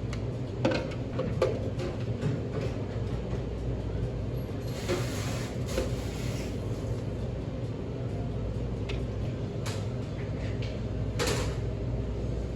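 Steady low rumble of a car heard from inside the cabin, with a few sharp knocks and clicks and a brief rustle about five seconds in.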